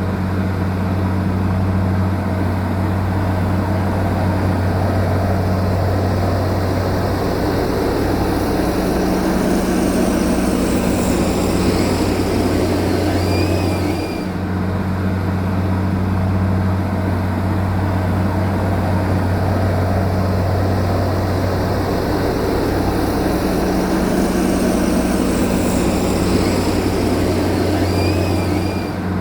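Heavy diesel earth-moving machine engine running steadily, a constant low drone.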